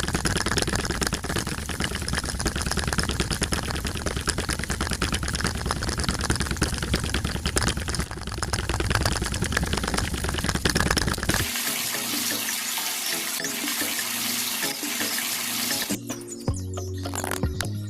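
Water running and splashing, with the sound changing abruptly about eleven seconds in.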